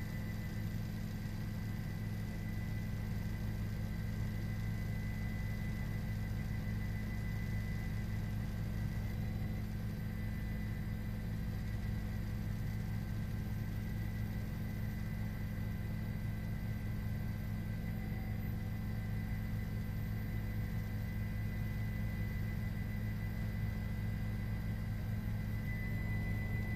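Steady, unchanging low engine drone with a thin high whine above it.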